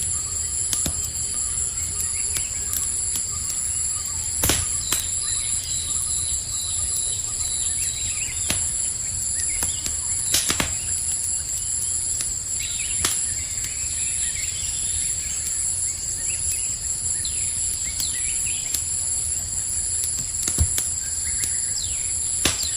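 Crickets trilling steadily at a high pitch over the low rush of a crackling campfire, with a few sharp pops, the loudest about four and a half and ten and a half seconds in. Scattered bird chirps come and go.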